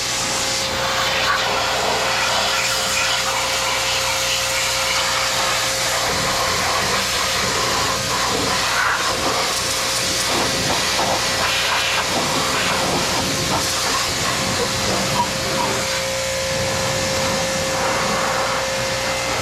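Loud, steady hiss of a high-pressure spray being used to clean a junkyard Ford 6.2L V8 engine, with a steady hum underneath.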